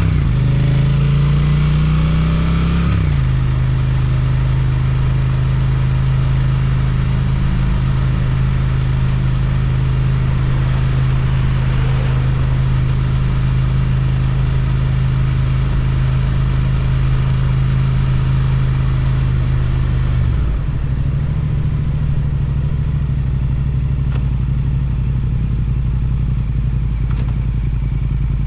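Suzuki GSX-8TT's parallel-twin engine through an Akrapovič exhaust, heard from the rider's seat: it pulls up through the revs, shifts about three seconds in, then runs at steady revs. About twenty seconds in the revs drop and it runs on lower and a little quieter.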